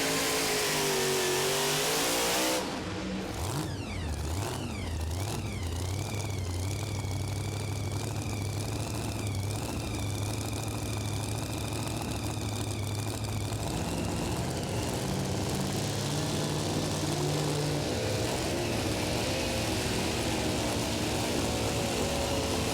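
Super modified two-wheel-drive pulling truck engine at full throttle on a pull, cutting off sharply about two and a half seconds in as the driver lifts off at the end of the run. It then runs at low revs with a high whine that falls and holds steady, and later revs rise and fall gently.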